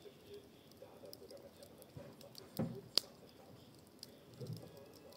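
Wood fire of garden cuttings crackling faintly in a fire bowl, with scattered small pops, a low thud a little past two and a half seconds in and a sharp crack just after it.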